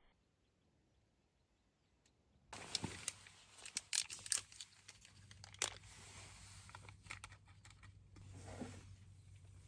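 Rustling and crinkling with sharp clicks, as of something being handled, starting suddenly after a quiet opening, over a steady low hum.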